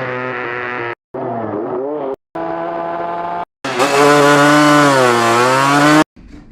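Four short clips of a high-revving engine spliced together, each ending in an abrupt dead-silent gap. The pitch dips and climbs back within the clips, and the last clip, about two and a half seconds long, is the loudest.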